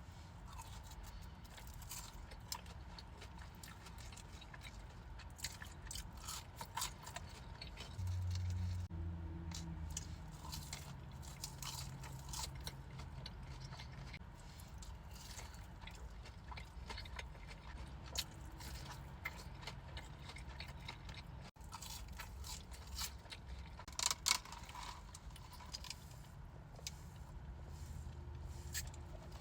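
Close-miked crunching and chewing of fried chicken tenders, with many sharp crisp bites scattered through and a louder burst of crunches about 24 seconds in. A low hum runs from about 8 to 14 seconds in.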